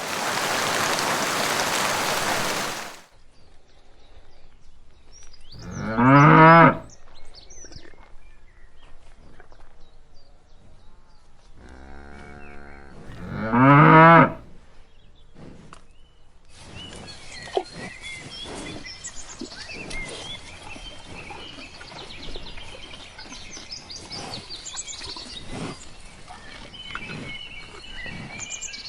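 Cattle mooing: two long, loud moos about six and fourteen seconds in, after a loud three-second burst of rushing noise at the start. From about sixteen seconds a fainter outdoor recording follows, with birds chirping and scattered knocks.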